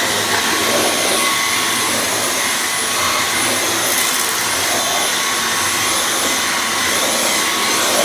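Dyson V11 cordless stick vacuum running steadily with its small roller head on stairs: an even rush of air with thin high whining tones.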